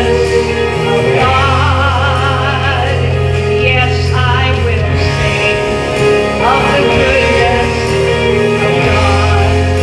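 A gospel song: a solo voice sings with vibrato over instrumental accompaniment with held bass notes.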